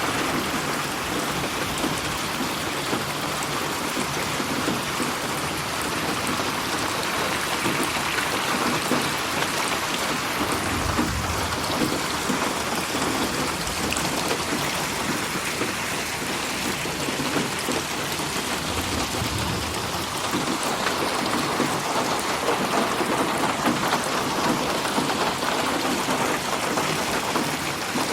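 Steady rain falling, a dense even hiss of drops, in 8D audio panned around the listener. Two low rumbles of distant thunder come about 11 and 19 seconds in.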